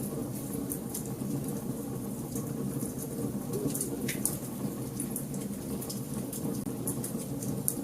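Wood fire burning in a fireplace, crackling with frequent small sharp pops over a steady low rumble. A brief falling whistle about four seconds in.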